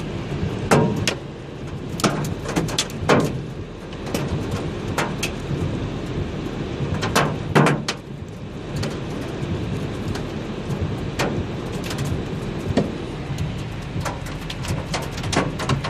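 Hailstorm: a steady rush of falling hail and rain, with irregular sharp knocks of hailstones striking hard surfaces, a few of them much louder than the rest.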